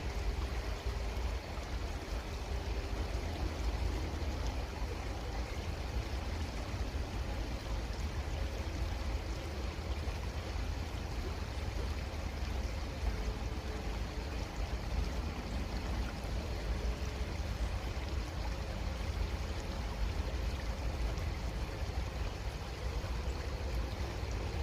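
Creek water flowing steadily, an even rushing with a strong low rumble underneath.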